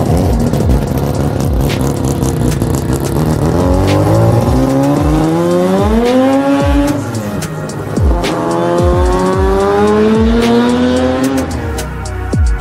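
Rotary engine of a Mk1 Ford Escort revving hard, its pitch climbing and falling twice, with tyres squealing in the first few seconds. Electronic music with deep, falling bass hits plays underneath.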